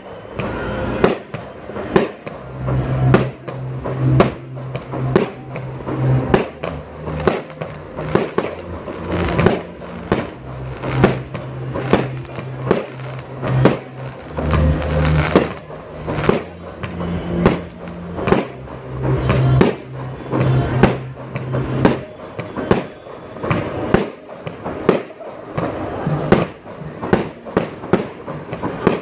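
Fireworks bursting during a display, mixed with music that has a steady beat and deep bass notes.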